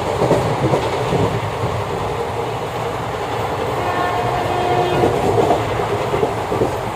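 Passenger train running, heard from inside the coach: a steady rumble and rattle of the carriage and wheels on the rails, with a thin steady tone for about a second midway.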